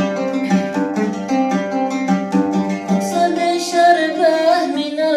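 Song with a plucked string instrument playing a melody; about three seconds in a voice joins with a long, wavering sung note.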